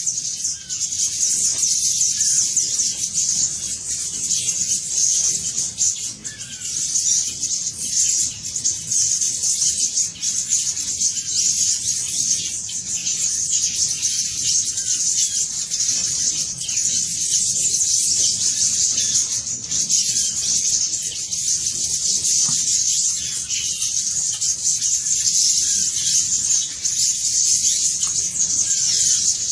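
Dense, continuous high-pitched chirping and twittering of small birds, with no break.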